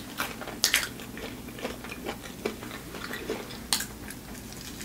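Close-up mouth sounds of biting and chewing a Flamin' Hot Cheetos-coated fried chicken wing, with a few sharp clicks. The loudest clicks come just under a second in and near four seconds.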